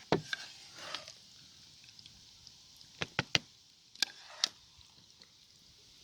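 Scattered sharp clicks and knocks of utensils against camp cookware: a few near the start, then a pair about three seconds in and another about four seconds in.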